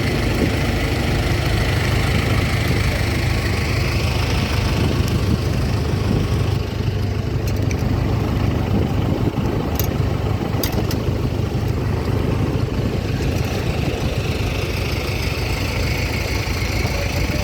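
A vehicle engine running steadily with a low rumble, and a few sharp clicks about halfway through.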